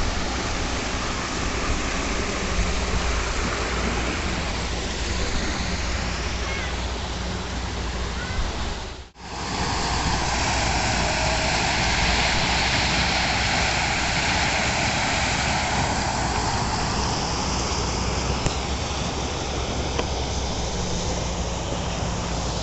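Water rushing over a stone weir (anaicut): a steady, loud rush of falling river water, with a brief dropout about nine seconds in where the recording cuts.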